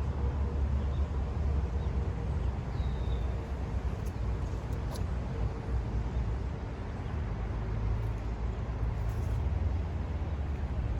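Steady low rumble of outdoor ambience, with a faint short chirp about three seconds in.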